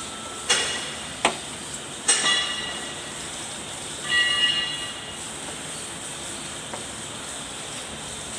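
Metal-on-metal knocks and clangs from work on steel rotovator parts: two sharp knocks in the first second and a half, then a ringing clang about two seconds in and a ringing metallic rattle about four seconds in, over a steady hiss.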